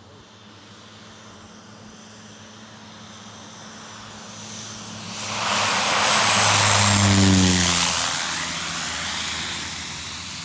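Small propeller aeroplane flying low past: its engine and propeller noise builds to a loud peak, and the pitch drops as it goes by, then fades.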